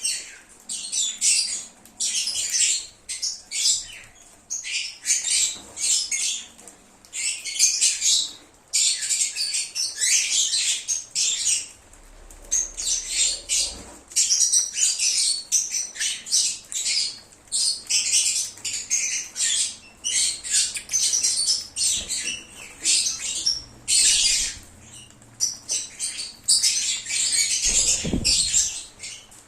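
A group of lovebirds (Agapornis) chirping and squawking, shrill high-pitched calls tumbling over each other in rapid bursts with short pauses between.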